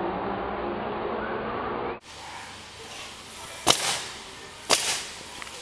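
A steady din of background noise, then after a cut two sharp cracks about a second apart, each trailing off briefly: a leather whip being cracked.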